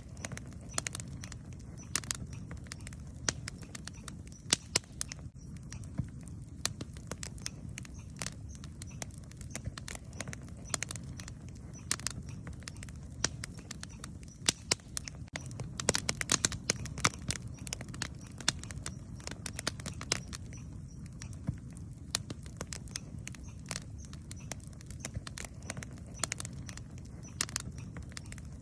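Wood campfire crackling, with sharp irregular pops and snaps over a steady low rumble; the pops come thickest about halfway through.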